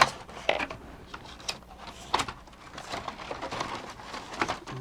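Parts of a mechanical animated display knocking and clicking as they are handled and fitted back into the housing: a handful of short, separate clicks and taps.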